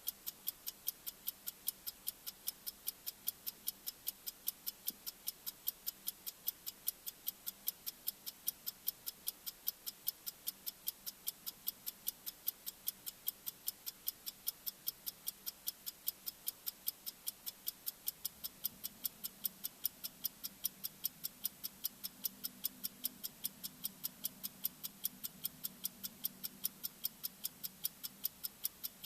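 Bomb-timer ticking sound effect: sharp, high-pitched ticks, evenly spaced at about three a second and steady in level. A faint low hum comes in about two-thirds of the way through.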